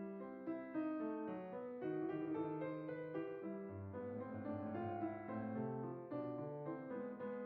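Background music: a piano playing a steady run of repeated notes, with lower notes coming in about halfway through.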